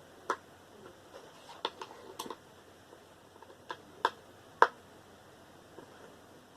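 Scattered light clicks and taps of tools and parts being handled while a desktop computer tower is taken apart, about eight in all, the sharpest one at about four and a half seconds in.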